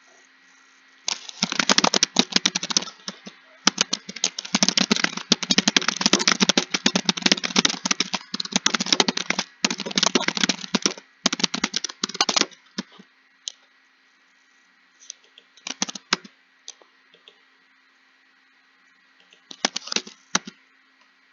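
Computer keyboard typing: fast runs of keystrokes for about eleven seconds, then a pause broken by two short bursts of keys.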